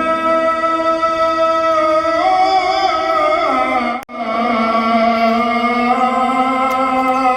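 A muezzin's call to prayer (adhan): a man's voice holds long, ornamented notes that glide slowly between pitches. There is a brief break about four seconds in before the next drawn-out phrase begins.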